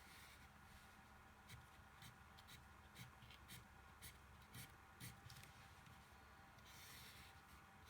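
Faint scratching of a drawing tool on cardboard as stripes are drawn: short strokes about two a second for a few seconds, then a longer stroke near the end.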